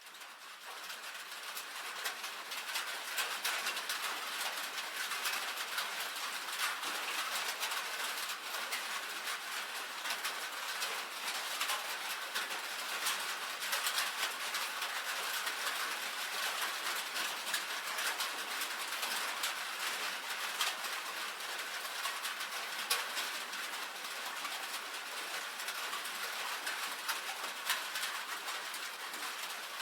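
Steady rain on a tin roof: a dense patter of many small drop ticks on the metal. It fades in from silence over the first couple of seconds, then holds even.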